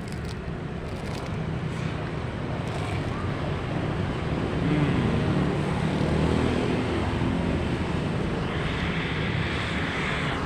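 Steady roadside traffic noise with wind buffeting the microphone, a continuous low rumble, and a brighter hiss near the end.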